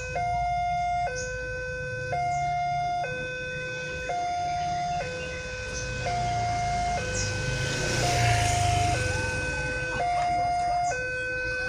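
Railway level-crossing warning alarm sounding a two-tone electronic signal that switches between a lower and a higher tone about once a second, warning of an approaching train. A road vehicle passes with a rush of noise about eight seconds in, over a low traffic rumble.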